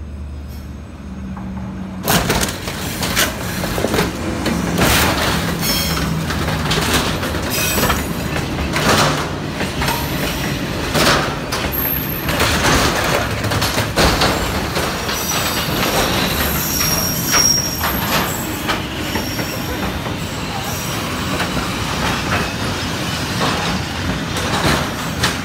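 Freight train passing at close range and sideswiping a parked truck: a low rumble that turns suddenly loud about two seconds in, as the wagons scrape and bang along the truck's body, with metal grinding, repeated knocks and wheel squeal.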